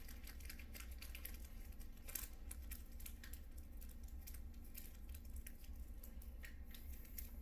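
Packing tape and packaging being pulled at by hand: a run of short, irregular crinkling and tearing noises over a low steady hum.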